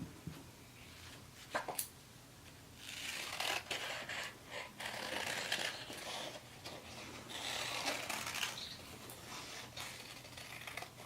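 Construction paper being worked by hand, faint rustling and scraping as a bird shape is made, with a short click about one and a half seconds in.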